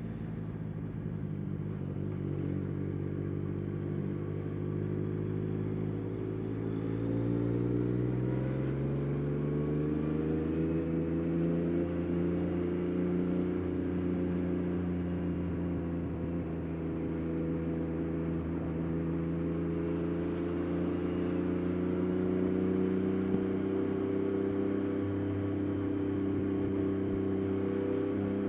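Yamaha Tracer 9 GT+'s 890 cc CP3 three-cylinder engine through a Roadsitalia titanium exhaust, running at low revs and then revving up from about seven seconds in. It settles into a steady higher-rev run, with a slight dip in revs midway.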